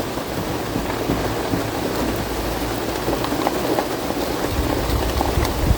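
Steady rain falling on surfaces, with scattered drops ticking. A low rumble joins in near the end.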